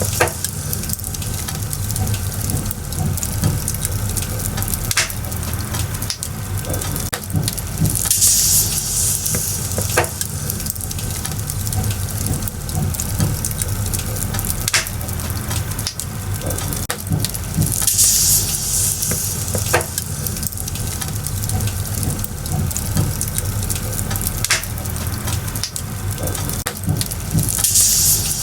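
Burning firewood crackling, with scattered sharp pops over a steady low rumble of the flames. A short high hiss comes back about every ten seconds.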